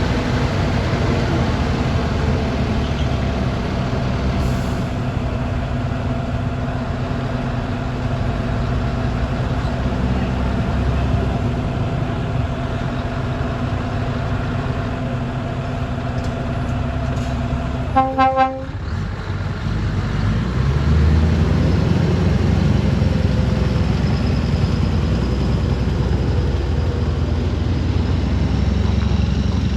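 Heavy truck's diesel engine running steadily, a Scania R580's V8. About eighteen seconds in comes a quick double toot of the horn, and a couple of seconds later the engine gets louder.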